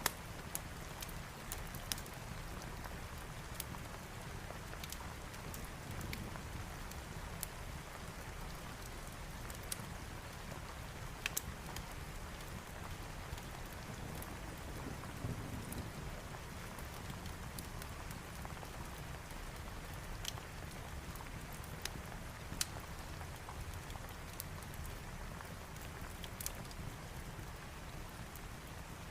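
Steady rain with scattered sharp pops and crackles from a wood fire, and a faint low rumble about halfway through.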